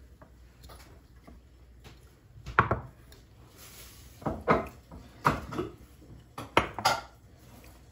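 Several light knocks and clatters of dishes and utensils being handled, loudest about a third of the way in, with a quick run of them in the second half.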